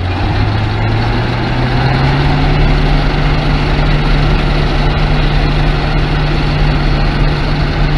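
DON-1500 combine harvester running with its threshing machinery engaged, the engine revs climbing over the first couple of seconds and then holding steady. It is running with the sieves open to blow trash out of the machine.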